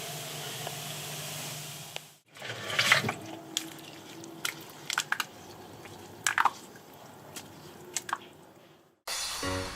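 Cola and Mentos foam fizzing with a steady hiss, then, after a short break, liquid dripping and splattering in separate sharp drips and squelches.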